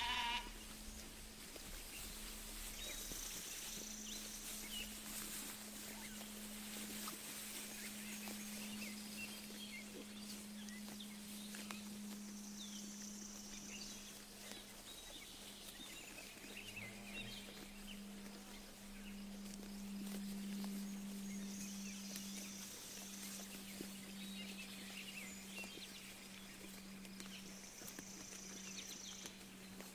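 Sheep pasture ambience: a sheep's bleat ends right at the start, then sheep graze with many short soft clicks of grass tearing and chewing, while birds chirp and a high phrase comes back every eight seconds or so. A steady low hum runs underneath.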